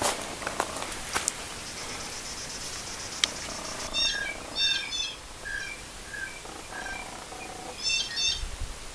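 Several wild birds calling in the woods: short high calls from about four seconds in, with a repeated note about twice a second and another cluster of calls near the end. A few sharp clicks come in the first second or so.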